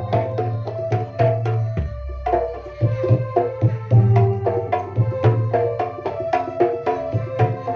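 Kendang hand drums playing a fast pencak silat accompaniment rhythm, dense strokes over ringing bass notes. About two seconds in, the strokes pause briefly under one deep low note before the rhythm resumes.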